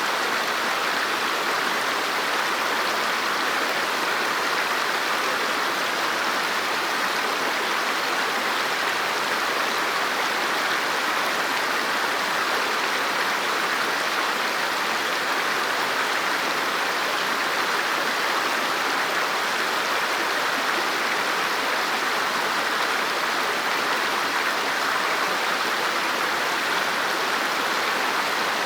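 River water flowing steadily over rocks, a constant rushing with no changes.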